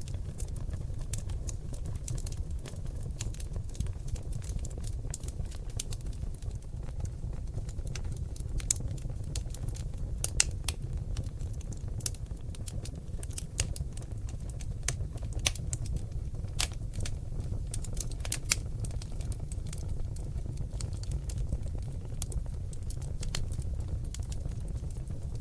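Seasoned oak logs crackling in a fireplace: frequent, irregular sharp pops and snaps over a steady low rumble of the burning fire, with a few louder pops near the middle.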